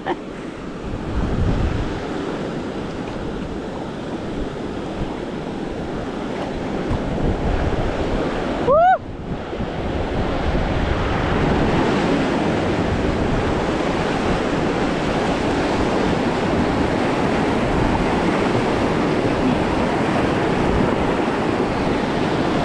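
Rushing water of river rapids, a steady roar of noise with wind buffeting the microphone. About nine seconds in the sound briefly drops out, and a short rising whoop follows.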